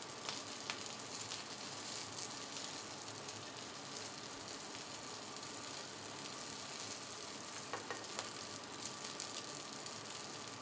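Chicken wings sizzling steadily on a hot flat-top griddle.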